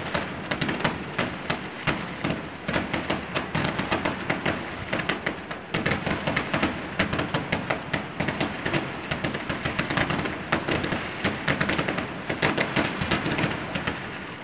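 Aerial fireworks going off in a rapid, continuous barrage of sharp bangs and crackling pops, several per second.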